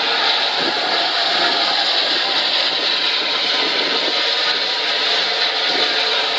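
Steam locomotive standing still and hissing steam: a steady, even hiss with no rhythm of exhaust beats.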